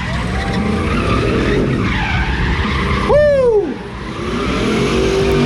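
Twin-turbocharged Lexus 1UZ V8 running at high revs during a burnout, with tyres squealing on the pavement. A person shouts "Woo!" about three seconds in.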